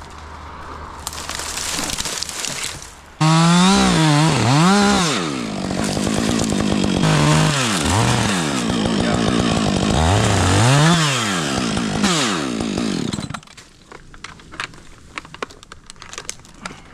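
Chainsaw cutting into dead hemlock wood: it comes on suddenly at full revs, its pitch dipping and recovering again and again as the chain loads in the cut, then cuts off about ten seconds later.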